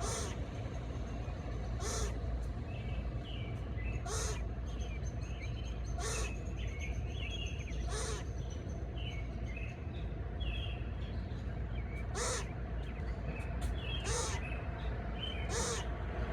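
A bird giving a harsh call about every two seconds, about eight times, with small chirps from other birds in between and a steady low rumble underneath.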